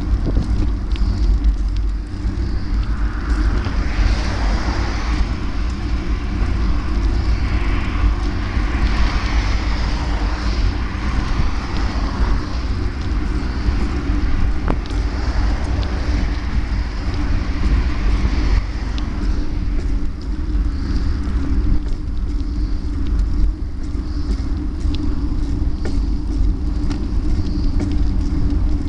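Steady riding noise on a bike-mounted microphone: a heavy wind rumble under a constant humming drone, with a hiss that swells a few times as traffic or road noise passes.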